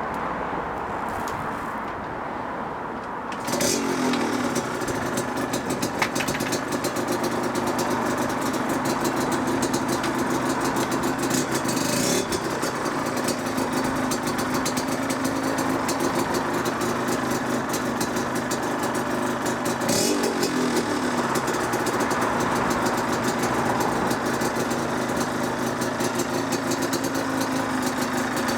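Yamaha DTR 125 single-cylinder two-stroke engine and exhaust. About three and a half seconds in, the engine comes in loud, then drops to a steady idle. It gets brief blips of the throttle around the middle, settling back to idle each time.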